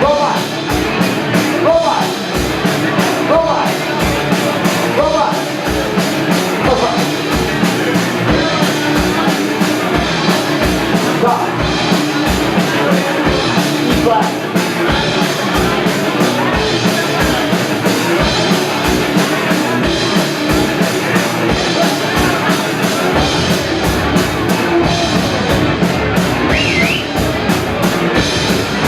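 Fast rock music with a driving drum beat, guitar and singing.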